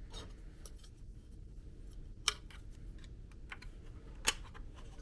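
Small clicks and light plastic-and-metal handling noises as batteries are fitted into a toy delivery-truck bank, with two sharper clicks about two seconds apart.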